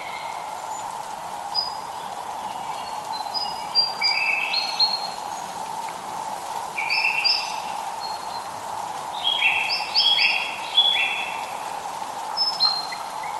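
Songbirds chirping in short runs of quick, stepped notes, several phrases a few seconds apart, over a steady hiss of light rain.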